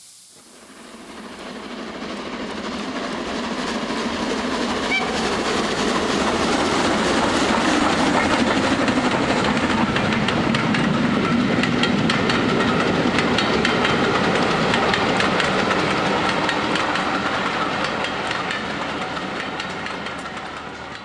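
Train passing, its wheels clattering steadily over rail joints; it grows louder over the first several seconds, holds, then eases off near the end.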